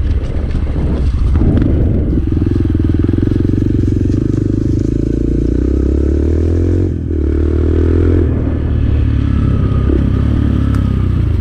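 Motorcycle engine running under way as the bike is ridden over rough trail, heard from a mic inside the rider's helmet. The engine sound dips briefly about two-thirds of the way through, then picks up again.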